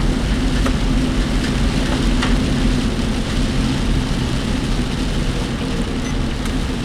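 Inside a work vehicle's cabin: steady engine and road noise with rain hissing on the car, and a few faint rattles from the work vehicle's body.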